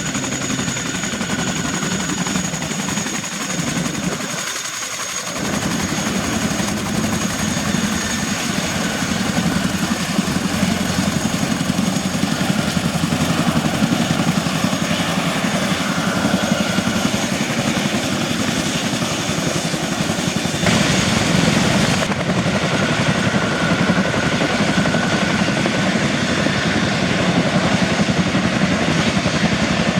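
Boeing CH-47D Chinook tandem-rotor helicopter running close by: the blades beat steadily under a thin, steady high whine from its twin turboshaft engines.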